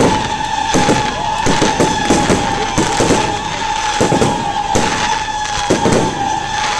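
Fireworks display: a rapid, irregular run of loud bangs and crackles, several a second, over a steady high tone.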